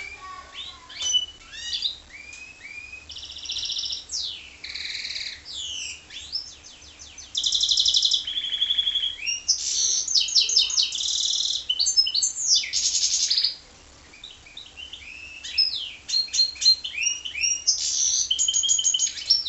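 Goldfinch × canary hybrid singing a long, varied song of fast trills, rolling repeated notes and rising and falling whistles. It breaks off for about two seconds past the middle, then starts again.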